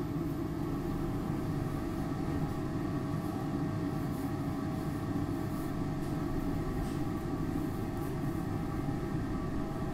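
Steady rumble and hum inside a SEPTA Market-Frankford Line rail car at a station, with a faint steady tone over it.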